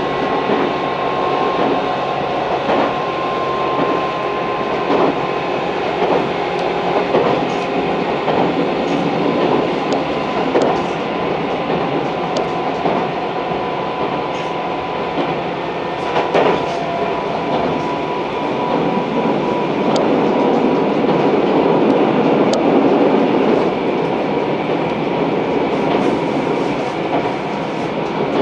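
Tobu 634-type electric train running along the line, heard from inside the car: a steady rumble of wheels on rail with scattered sharp clicks from the track and a faint steady whine.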